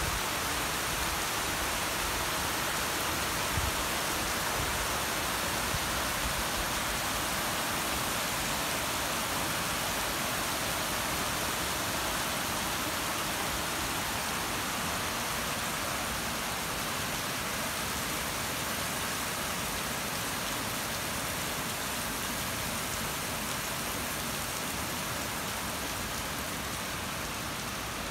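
Heavy rain pouring down on a paved street, trees and parked cars: a steady, even hiss of falling rain.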